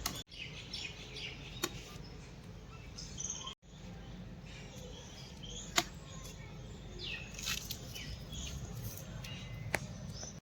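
Small birds chirping repeatedly over a low steady background, with three sharp knocks a few seconds apart, the middle one the loudest.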